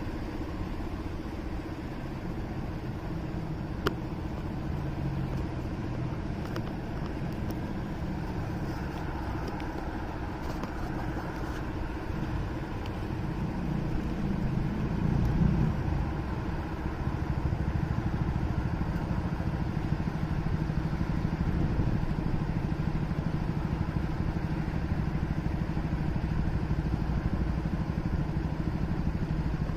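Motorcycle engine heard from the rider's seat while riding through city traffic, with a steady drone and road noise. The engine note shifts about halfway through and then runs louder and steadier for the second half, with a single sharp click early on.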